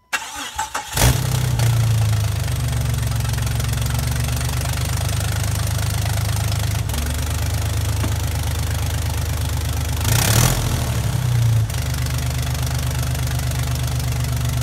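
Jeep 4.0-litre inline-six, a 2002 Grand Cherokee WJ engine swapped into a 1999 Cherokee XJ, cranks briefly and catches about a second in, then idles steadily. About ten seconds in it is revved once and drops back to idle a little over a second later.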